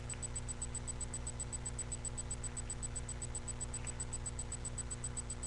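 Steady electrical hum and hiss from a webcam microphone, with a thin high whine pulsing many times a second and only a few faint brief scuffs.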